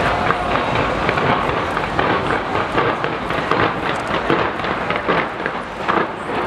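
A fireworks display going off in rapid succession: many sharp cracks and bangs overlapping, several a second.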